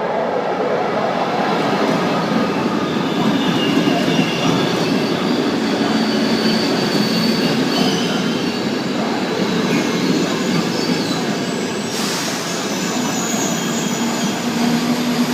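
Frecciabianca express train running into the station alongside the platform: a loud, steady rush of wheels and running gear on the rails, with faint high-pitched wheel squeals as it brakes to stop.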